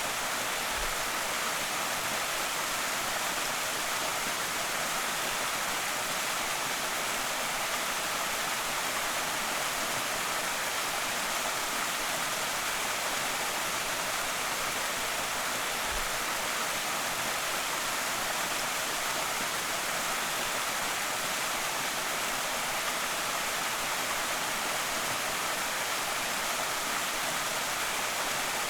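Steady rushing of a creek waterfall, water pouring and splashing over rock in an even, unbroken hiss.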